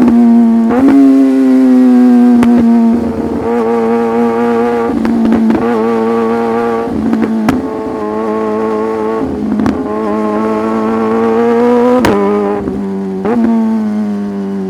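Sport motorcycle engine heard from on the bike, held at steady revs that sag slowly. Sharp clicks at gear changes break it about seven times, and at several of them the engine note steps up in pitch.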